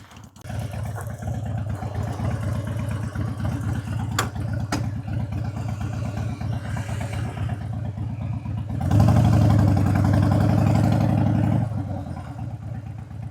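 Motorcycle engine catching about half a second in and running at a lumpy, pulsing idle, with two sharp clicks around four seconds in. Near the end it runs louder and steadier at higher revs for about three seconds, then settles back to idle.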